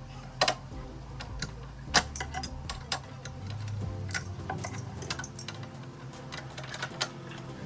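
Scattered sharp metallic clinks and taps, as of hand tools and metal parts being handled, over quiet background music. The loudest come about half a second and two seconds in.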